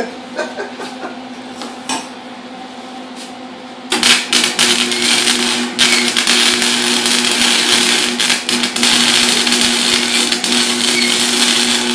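MIG welding arc striking about four seconds in and then crackling steadily as a weld is laid on a turbo flange, over a steady low hum; before it, only a few light clicks.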